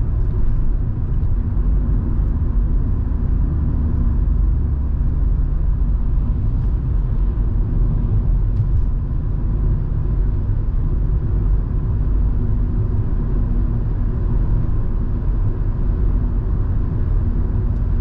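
Volvo V70 2.5T on the move: a steady low rumble of its turbocharged five-cylinder petrol engine mixed with tyre and road noise.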